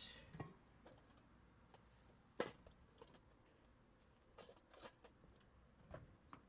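Faint, scattered clicks and knocks over a quiet background, the loudest about two and a half seconds in, with a small cluster near the five-second mark.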